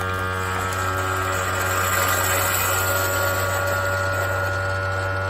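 Keurig K-Mini Plus single-serve coffee maker brewing: its water pump buzzes steadily. A hiss of hot water and steam through the pod grows about two seconds in.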